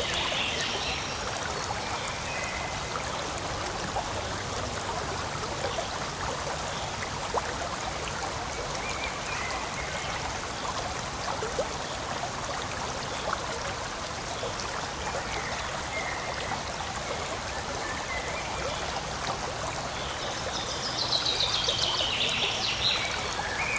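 Forest stream flowing and trickling steadily. A brief descending run of quick high notes comes near the end.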